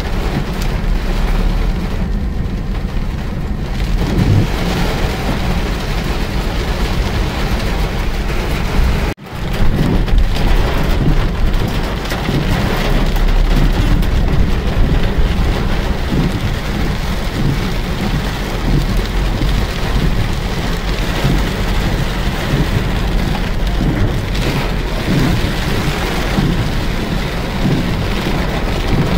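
Heavy rain drumming steadily on a vehicle's roof and windscreen, heard from inside, over a strong steady low rumble. The sound breaks off for a moment about nine seconds in.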